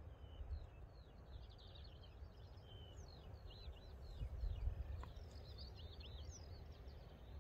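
Small songbird singing a long run of quick, high chirps and short trills, over a low wind rumble on the microphone that gusts about halfway through.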